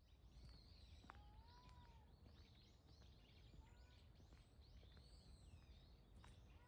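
Faint birdsong: several small birds chirping and twittering, with one longer whistled note about a second in.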